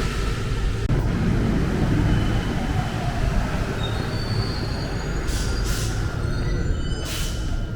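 Rubber-tyred MP 05 Paris Métro train running with a steady low rumble. Short high squeals come in from about halfway, and two brief hisses of air sound near the end.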